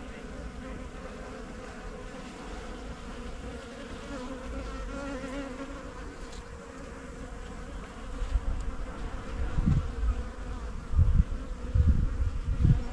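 Honey bees of an open hive buzzing in a steady hum, a calm colony. From about eight seconds in, low rumbling bumps come over the hum.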